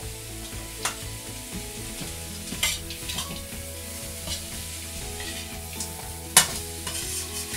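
Onions, peas and carrots sizzling in oil in a stainless-steel wok while a metal spatula stirs and scrapes them, with a few sharp clanks of the spatula against the pan, the loudest about six seconds in.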